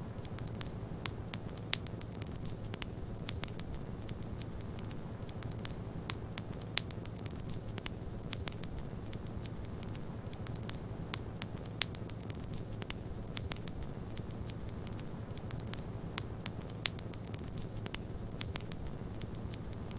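Wood fire crackling in a fireplace: irregular sharp pops and snaps, a few louder than the rest, over a steady low rumble of wind and flames.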